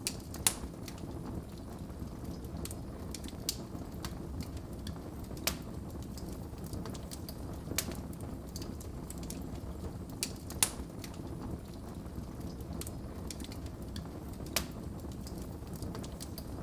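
Wood fire burning in a fireplace: a steady low rumble of the flames with sharp, irregular crackles and pops from the burning logs, the loudest pops about half a second in and about ten and a half seconds in.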